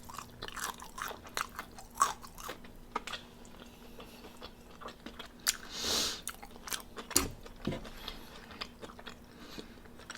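Chewing and biting into crispy fried chicken wings, with irregular crunches and mouth sounds, and a short hissing swell about six seconds in.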